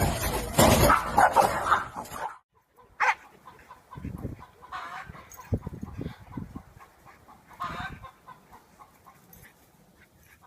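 A dog's barks and yelps over a loud commotion for about two seconds. After a sudden cut come a few short, higher calls and some low knocks.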